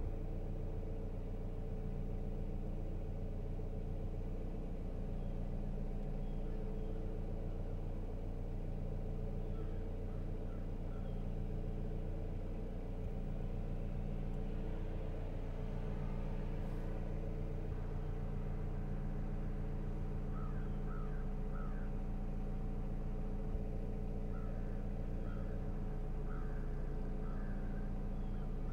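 Steady low hum of a car engine idling, heard from inside the car, with a few faint short chirps in the second half.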